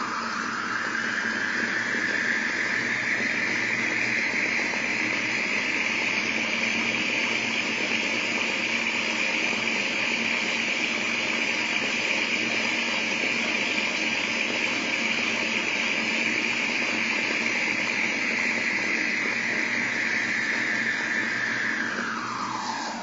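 A small DC motor drives a 2 cm wheel at high speed, running with a high whine over a rushing wheel noise. The whine rises over the first few seconds as the motor speeds up and holds steady. Near the end it falls away and stops as power is lost when the Arduino's power cable is cut.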